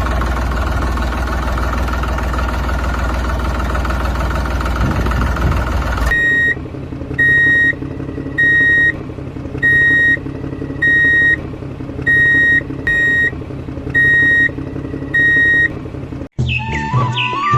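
A motor runs steadily for about six seconds with a strong low hum. After an abrupt change, an electronic beeper sounds about once a second over a quieter hum, about nine times, like a reversing alarm. Music starts near the end.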